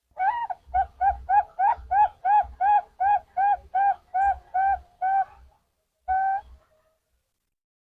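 Zebra dove (perkutut) cooing: a run of about fourteen short, even coos at roughly three a second, then a pause and one longer, drawn-out coo near the end.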